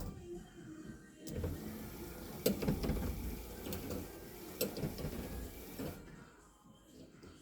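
Electric windscreen wiper motor on a Leyland tractor running under power for about five seconds, with a few clicks, then stopping.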